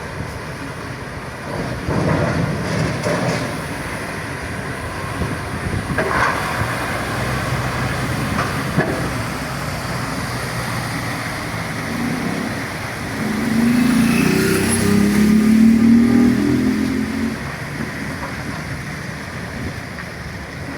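Heavy diesel trucks running with a steady low rumble and a few metallic knocks; about thirteen seconds in, a louder engine sound swells for some four seconds, then fades.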